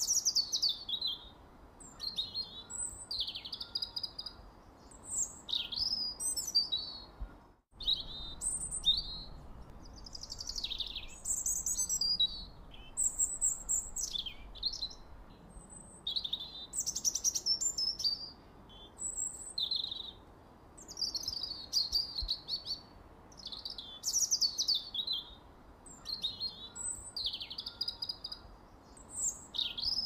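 Small birds chirping and twittering: many quick, short calls, several sliding down in pitch, over a faint steady hiss, with a brief total dropout about eight seconds in.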